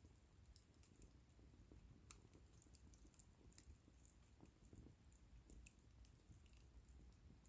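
Faint crackling of a wood bonfire: irregular sharp little pops and snaps over a faint low rumble.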